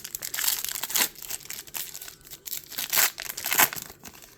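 Pokémon trading card pack packaging being torn open and crinkled by hand: irregular plastic and foil crackling and tearing, with louder rips about a second in and again near three seconds.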